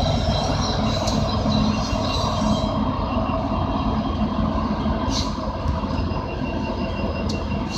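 Two diesel-electric helper locomotives at the rear of a covered-hopper unit train, one of them the Union Pacific Olympic Torch Relay heritage unit, rolling past with a steady rumble of engines and wheels on rail. The sound eases slightly as they draw away.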